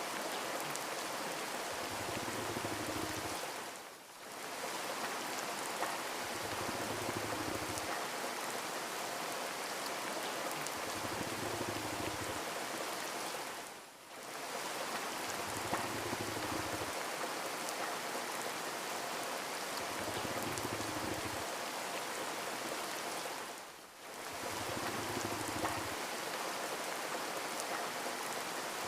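Steady rain falling, a dense even hiss of drops. It fades out and back in briefly three times, evenly about ten seconds apart.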